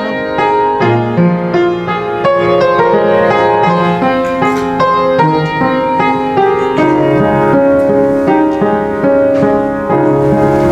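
Piano playing an instrumental passage of a slow worship song, sustained chords under a melody, with no singing.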